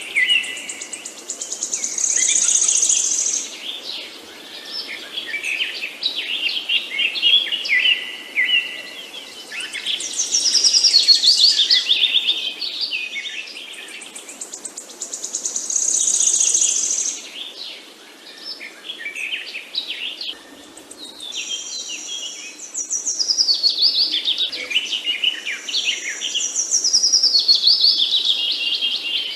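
Songbirds singing: high, descending song phrases recur every five or six seconds, with quieter chirps and twitters between them.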